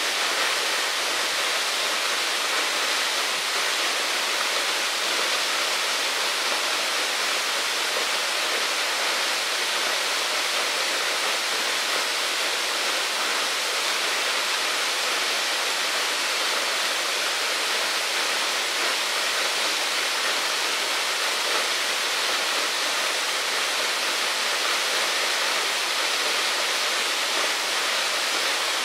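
Steady rush of flowing water: an even, unbroken hiss with no pitch to it and no change in level.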